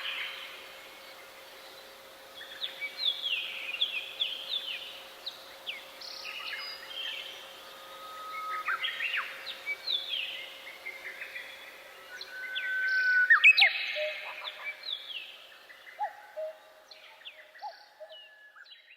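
Several songbirds singing in a forest, overlapping phrases of quick falling whistles and trills that come in bursts, with the loudest stretch a little over two-thirds of the way through.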